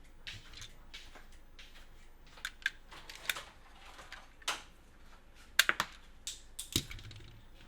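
Plastic toys and their packaging being handled: irregular sharp clicks and taps with soft rustling between them, the loudest quick run of clicks about five and a half seconds in.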